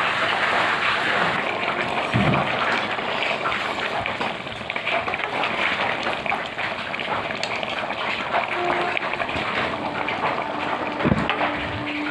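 Heavy rain pouring steadily, with a metal spoon stirring and scraping through thick curry in a metal pan.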